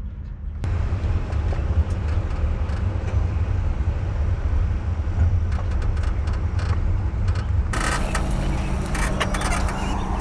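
Car engine running, a steady deep low rumble; it starts abruptly about a second in and gives way near the end to a steadier hum.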